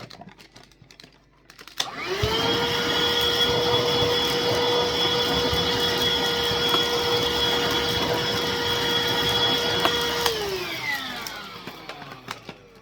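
Miele Blizzard CX1 bagless vacuum cleaner switched on for a brief test run after its dust bin is refitted. The motor runs up and then runs steadily for about eight seconds. It is switched off and winds down with falling pitch. A few faint handling clicks come before it starts.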